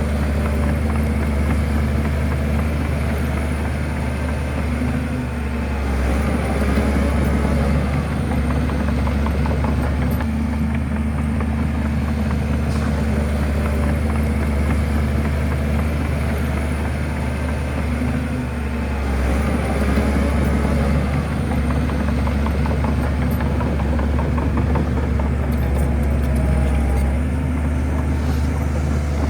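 Shantui bulldozer's diesel engine running steadily under work, its low drone swelling louder a few times.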